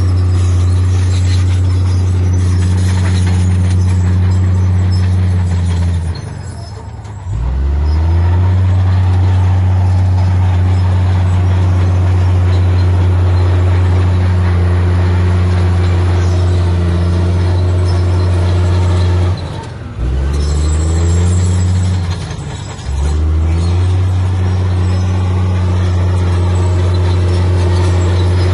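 Heavy earthmoving machine's diesel engine running hard at steady high revs. Three times the revs drop off briefly and climb back up, the first about six seconds in and the other two close together near the two-thirds mark.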